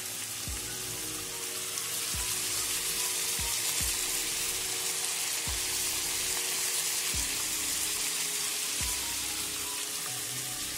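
Stuffed green chillies and chopped tomato frying in oil in a pan, a steady sizzle.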